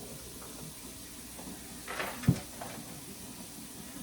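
Groceries being put away in a kitchen: a brief rustle, then a single dull thump about two seconds in, as of an item or cupboard door knocking.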